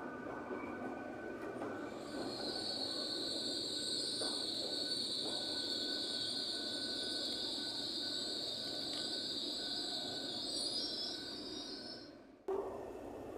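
Passenger train moving slowly over the rails with a steady rumble; from about two seconds in, a high, sustained wheel squeal sets in and holds until near the end. The sound cuts off abruptly shortly before the end.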